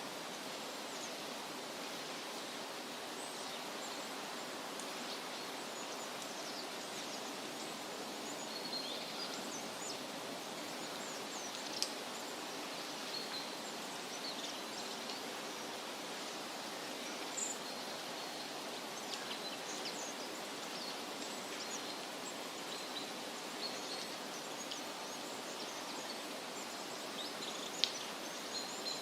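Forest ambience: a steady rushing hiss with scattered short, high bird chirps and a couple of faint clicks.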